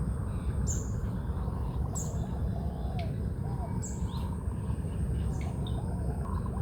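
Birds chirping, with short high falling calls about once a second and softer repeated lower notes, over a steady low rumble.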